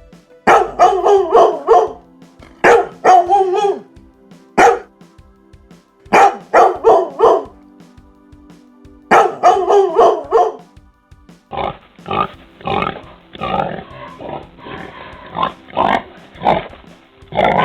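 A dog barking in five clusters of quick barks, then from about two-thirds of the way in a pig grunting and oinking in a series of short calls.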